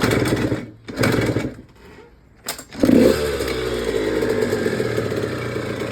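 Yamaha YZ dirt bike engine firing briefly twice and dying, then catching about three seconds in and settling into a steady idle on its freshly cleaned carburetor.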